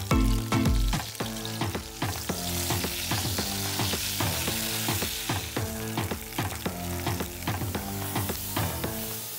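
Bell pepper pieces sizzling in hot oil in a cast-iron wok as they are stirred with wooden spatulas. The sizzle swells about two seconds in, over background music with a steady beat.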